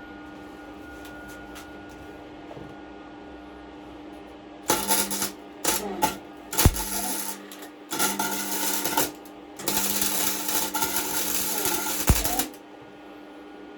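Arc welder crackling in short runs as holes in a thin steel pit-bike frame are filled with weld: about four bursts of about one to three seconds each, starting a few seconds in, over the welder's steady hum.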